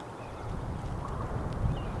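Wind buffeting the microphone, a low rumble that picks up about half a second in, with a few faint bird chirps over it.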